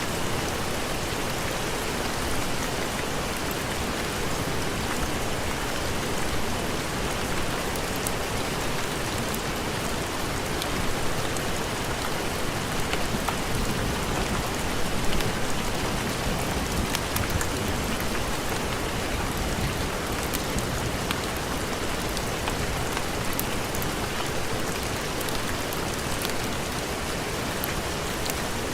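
Steady heavy rain: a dense, even hiss with many light, scattered ticks of drops.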